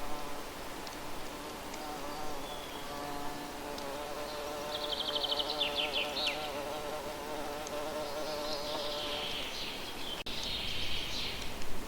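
A flying insect buzzing close by, its hum wavering in pitch and fading out near the end. Birds sing over it: a quick high trill about halfway through, then a longer warbling song near the end.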